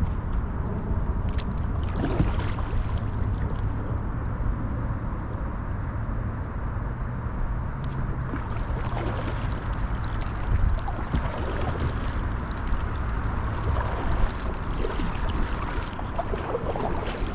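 Water splashing and lapping around a kayak as it is paddled, with small irregular splashes, over a steady low rumble of wind on the microphone.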